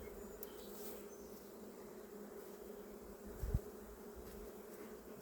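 Honeybees buzzing steadily in a low, even hum, with worker bees fanning at the hive entrance to spread their pheromones. A single short low thump about three and a half seconds in.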